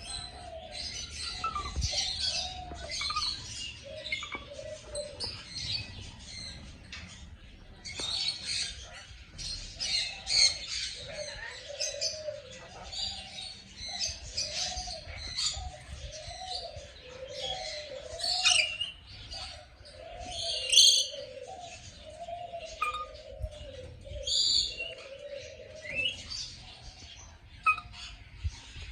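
Many birds chirping and twittering together, with a lower call repeated as a steady run of rising-and-falling notes, about one a second, through the middle, and a few louder sharp calls standing out.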